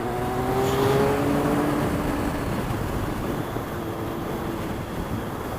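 A motor vehicle's engine note rising slowly in pitch for about two and a half seconds as it accelerates, then giving way to a steady noisy rush.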